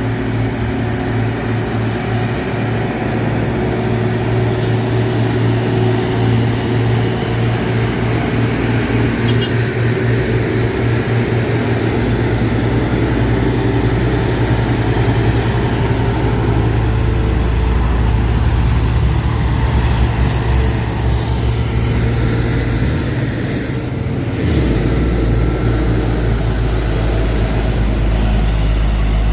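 Truck engine running hard at low speed, a steady low drone. Its note changes about halfway through and again near the end after a brief dip.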